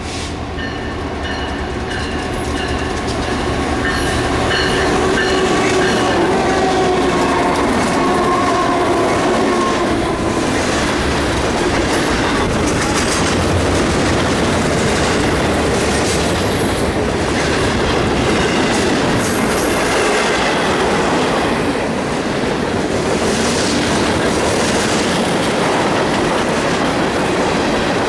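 Union Pacific freight train passing close by. The diesel locomotives come in first, growing louder over the first few seconds, then the freight cars roll past steadily with the clack of wheels over the rail joints.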